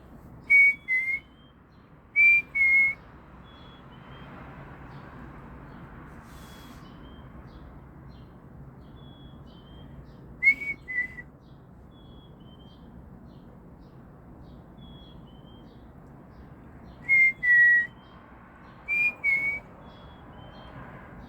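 A songbird close by whistling short phrases of two or three clear notes, each phrase stepping slightly down in pitch, five times at irregular intervals. Between them a second bird calls faintly in quick, higher notes.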